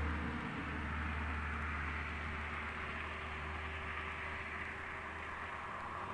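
Low engine rumble of a road vehicle that fades away over the first few seconds, over a steady outdoor hiss.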